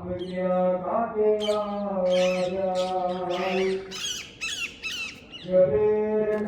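Several parrots squawking in a run of harsh calls from about a second in until about five seconds in, over steady chanting with music.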